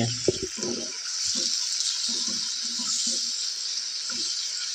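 Freshly added raw chicken sizzling in hot oil in a non-stick wok: a steady hiss, with irregular soft knocks and scrapes as a wooden spatula turns the pieces.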